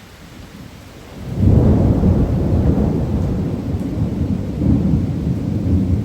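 Thunder rolling in: a low rumble swells suddenly about a second in and keeps rumbling loudly, over steady rain.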